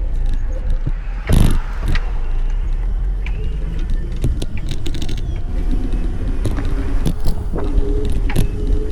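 Ride-along noise from a small vehicle on the move: wind rumbling on the microphone, with rattles and clicks and one loud knock about a second and a half in. A faint steady whine comes in during the second half.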